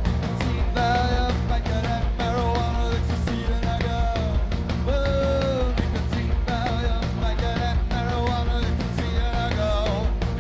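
Rock music with a steady pounding beat and a wavering, sliding melody line above it.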